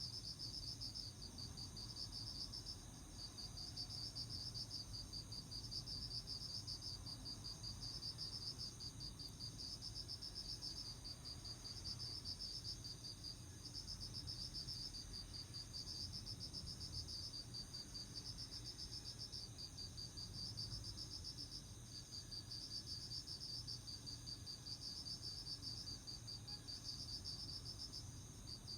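Autumn crickets trilling in a continuous, fast-pulsing, high-pitched chorus with brief dips every couple of seconds.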